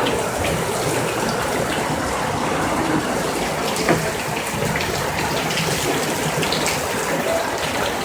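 Heavy rain pouring down steadily, with scattered small drip and splash ticks through the downpour.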